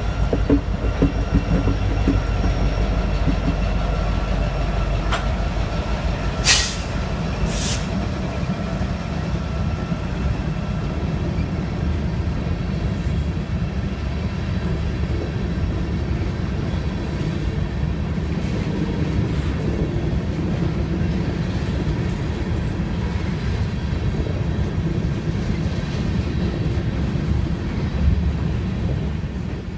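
Diesel freight locomotives passing close by, followed by a string of covered hopper cars rolling past with steady wheel noise on the rails. There are two brief sharp noises about six and a half and eight seconds in.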